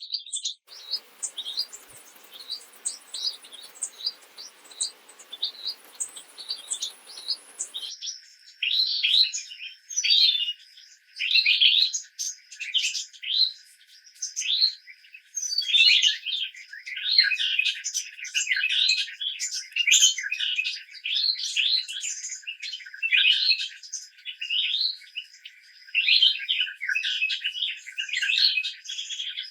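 Songbirds chirping, a busy run of short, rapid calls. A soft hiss sits under them for the first several seconds, then cuts off suddenly, and the chirping is louder and denser after that.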